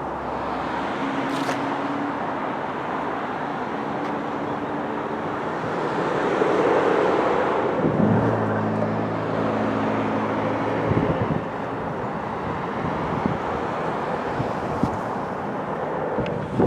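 Roller coaster running through a cycle over a steady rushing noise, its low rumble and hum swelling about six seconds in and easing off around eleven seconds.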